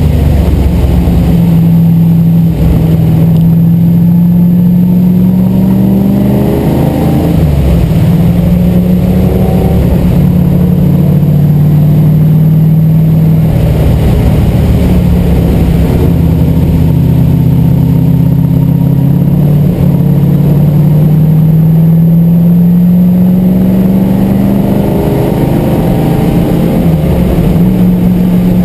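MGB GT V8's Rover V8 engine at racing speed, heard loud from inside the cabin. It pulls with rising pitch and then falls back several times as it works through the gears and lifts for corners.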